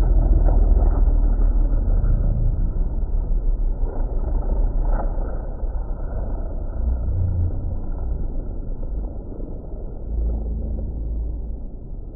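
Race cars' engines heard from trackside as a dense, muffled low noise, loud at first and gradually fading toward the end.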